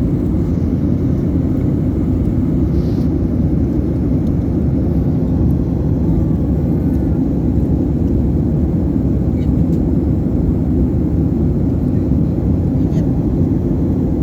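Steady low rumble of an airliner cabin in flight: engine and airflow noise, even and unchanging.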